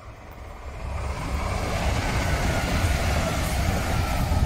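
Irish Rail 22000 class InterCity Railcar, a diesel multiple unit, passing close by on the main line. It grows louder over the first second or so, then holds a steady rumble and rush of wheels and carriages going by.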